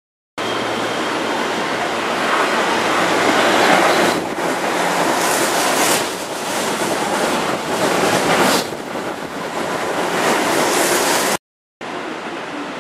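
Keihan 8000 series electric train running on the rails: a loud rushing noise that swells and dips. It cuts off suddenly about eleven seconds in, then comes back as a quieter steady rumble.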